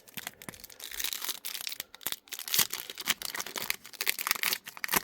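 A foil trading-card pack being torn open and crinkled, a dense run of crackling and tearing with sharp crisp snaps throughout.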